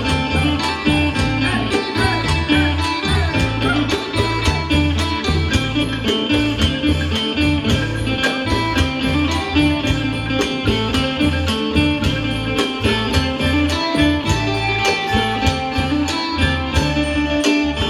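Thai Isan pong lang ensemble playing lively folk music, with plucked strings over a fast, steady percussion beat.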